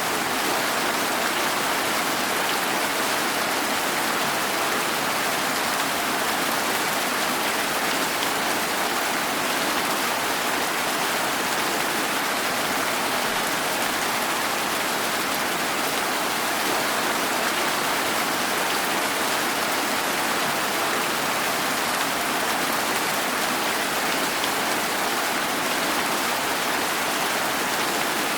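Steady rain falling, an even hiss of drops with no distinct events or changes.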